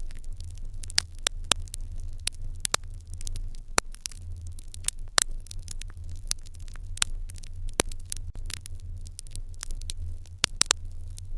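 Open hearth fire crackling: irregular sharp crackles and pops, a few louder than the rest, over a steady low rumble.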